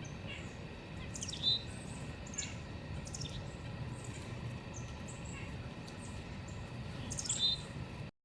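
Small birds at a feeder giving scattered short, high chirps, two of them louder about a second and a half in and near the end, over a steady low rumble. The sound cuts off suddenly just before the end.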